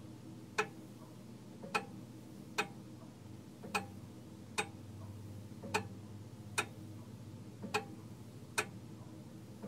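Mechanical clock ticking about once a second in an uneven tick-tock, the gaps alternating slightly shorter and longer, over a low steady hum.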